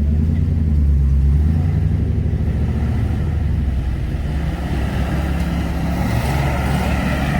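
Off-road vehicle engine running steadily on the trail, a little louder in the first second or two.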